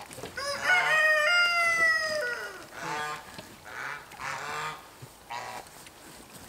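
A rooster crowing once, a long call that falls in pitch at the end, followed by a few short bird calls.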